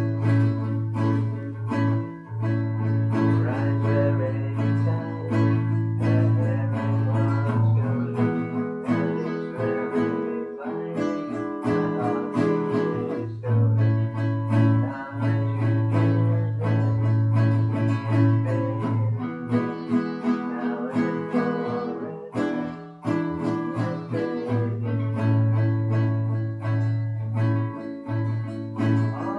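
Guitar, most likely acoustic, played with a pick: a steady stream of quickly picked notes over a low bass note that rings on underneath, with brief breaks in the bass now and then.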